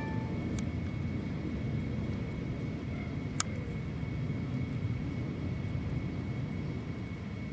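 Steady low outdoor rumble, like distant traffic or an aircraft, with a faint steady high tone and a single sharp click about three and a half seconds in.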